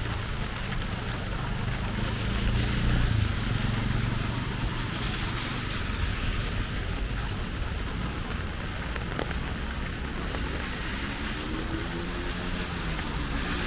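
Steady rain falling. A motor vehicle engine runs underneath in the first few seconds, and another engine comes in near the end, rising in pitch as it speeds up.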